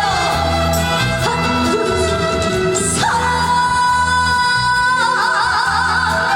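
A woman singing live over backing music with a steady bass beat. About halfway through she holds one long note, then sways it in a wide vibrato near the end.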